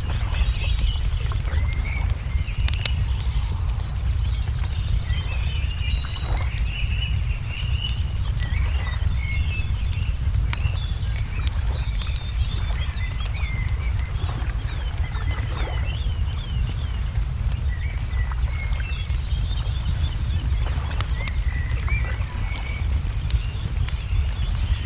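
Layered nature ambience: wood fire crackling with scattered sharp pops, songbirds chirping and twittering over it, all above a steady low rumble.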